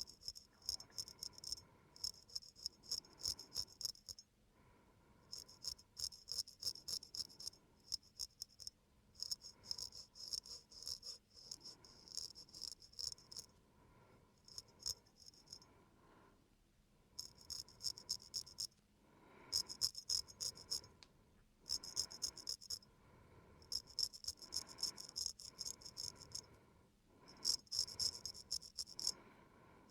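Razor scraping across a man's facial skin and stubble in quick short strokes. It comes in runs of about a second or two, with brief pauses between them, as the face is shaved clean.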